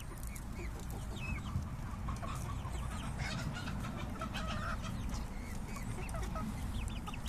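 A flock of guinea fowl calling, with many short, overlapping calls.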